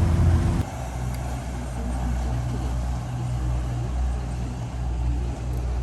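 Low, steady engine rumble of a moving vehicle, louder at first and dropping suddenly about half a second in.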